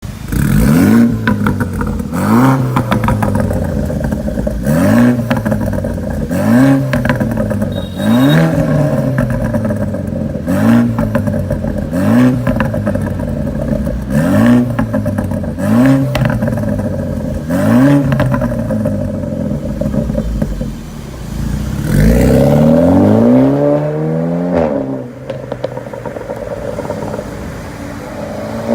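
BMW Z4 E89's 2.0-litre turbocharged four-cylinder running through an aftermarket exhaust, revved in about nine short blips roughly every two seconds, with sharp pops along the way. Near the end comes one longer rev, and then it settles to idle.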